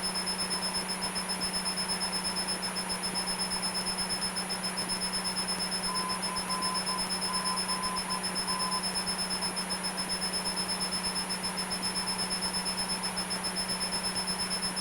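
Cessna 172's engine and propeller droning steadily in the cabin in cruise, with an even, fast pulse to the sound.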